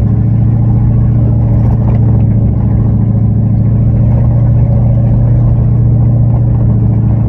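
Dodge Ram pickup's engine running steadily under load as the truck climbs a steep dirt trail, an even, unchanging drone.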